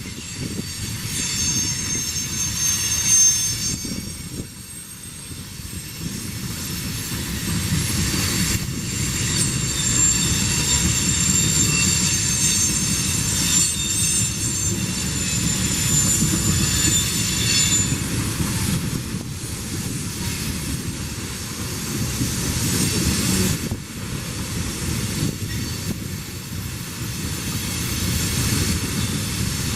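Freight train rolling past with a steady rumble of wheels on rail. High-pitched wheel squeal rings over it through the first half of the pass, then fades out.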